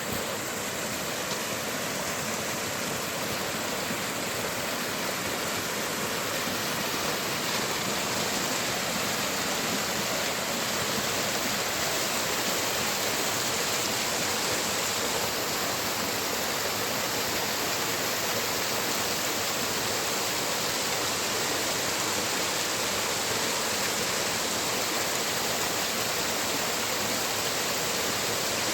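Rushing water of a canyon stream: a steady, unbroken rush of flowing water.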